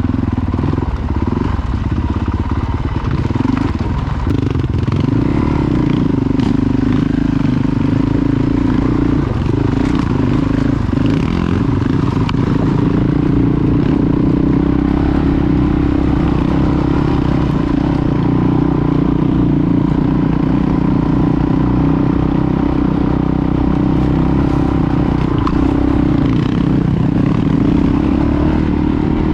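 Honda CRF450 dual-sport motorcycle's single-cylinder four-stroke engine running steadily while being ridden, its pitch shifting a little with the throttle, with light rattling from the bike.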